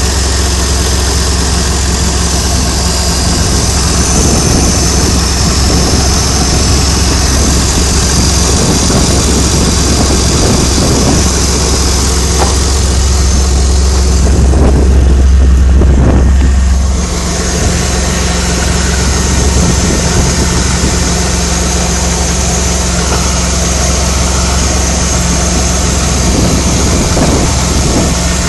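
Peugeot 406 Coupé's ES9J4 3.0-litre V6 idling steadily, its auxiliary belt turning on a shorter Gates belt that leaves out the A/C compressor, whose pulley clutch bearing rattles. For a couple of seconds around the middle the sound turns muffled and bassier.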